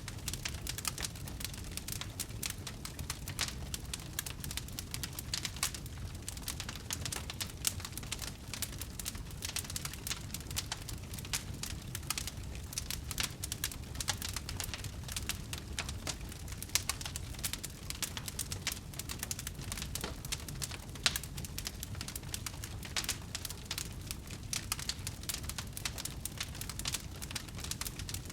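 Wood fire burning with dense, continuous crackling and small pops over a low rumble, a couple of louder snaps along the way.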